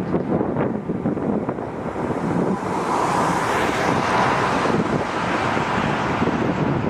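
Wind buffeting the microphone, with a broad rushing noise, likely a passing jet airliner, that swells and fades in the middle.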